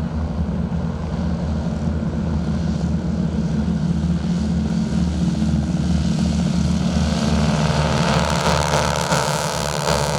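Propeller aircraft engine with a steady low drone. From about two-thirds of the way in, a higher layer of engine tone builds and grows louder as an aircraft comes nearer.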